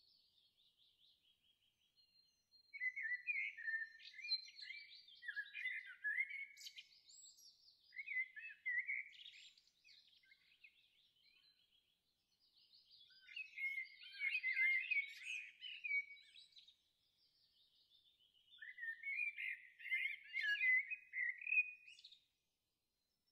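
Songbirds singing: rapid, varied high notes in about five phrases of one to three seconds each, with short pauses between them.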